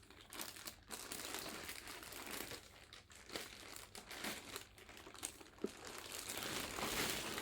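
Packaging wrap crinkling and rustling in irregular bursts as it is handled and pulled off a robot vacuum cleaner, a little louder near the end.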